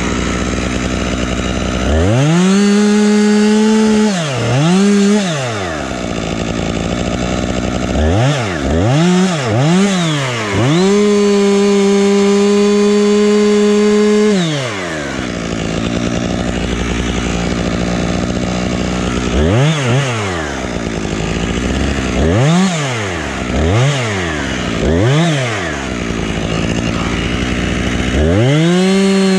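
Husqvarna two-stroke chainsaw alternating between idle and full throttle. It revs up twice near the start, gives quick blips around 8 to 10 seconds in, then holds a steady full-throttle whine for about four seconds. After idling it blips several more times and goes back to full throttle near the end.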